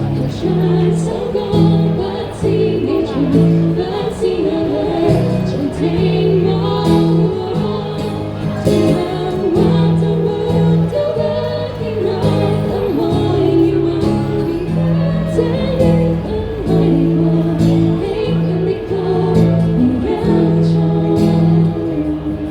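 A live pop band playing a song, with a singer's voice over sustained bass notes and a regular drum beat.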